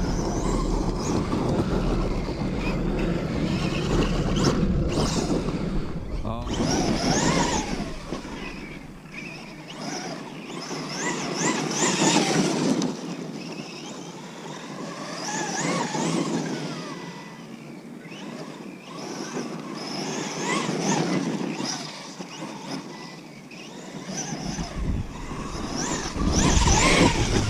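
Electric motor of a Kyosho USA-1 RC monster truck whining up and down in repeated throttle bursts every few seconds as the truck is driven over dirt and rock, with rough noise from the running gear between the bursts.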